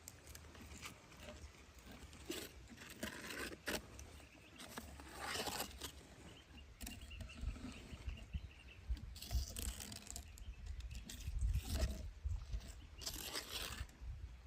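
Animals tearing at prey: irregular scraping, ripping and scuffling noises of varying loudness over a low rumble.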